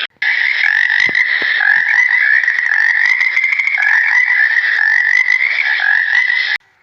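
Frogs calling in a continuous, pulsing trill that cuts in just after the start and stops abruptly near the end.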